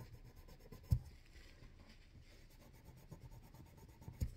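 Faint scratchy rubbing of a Q-tip tipped with steel wool scrubbing a straight razor, with two soft knocks, one about a second in and one near the end.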